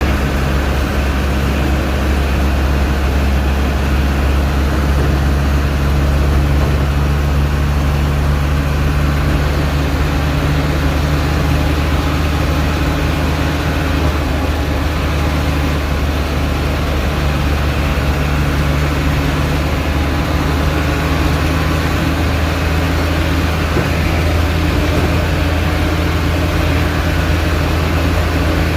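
Toyota Dyna truck's 14B four-cylinder diesel engine running at a steady, unchanging speed, tested after a service.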